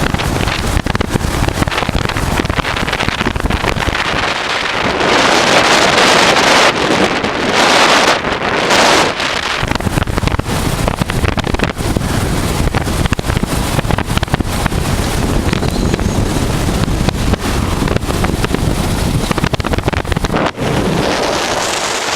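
Wind rushing over the microphone of a moving motorcycle, with the 1988 Honda Transalp's V-twin engine running steadily underneath. The rushing swells louder about five seconds in, again a few seconds later, and near the end.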